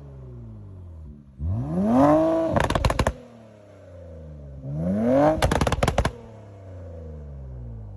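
2016 Infiniti Q50 Red Sport 400's twin-turbo 3.0-litre V6, breathing through catted downpipes, a resonated x-pipe and sport mufflers on an AMS tune, revved sharply twice from idle. Each rev is followed by a burst of crackles and pops as the revs fall back to a steady idle.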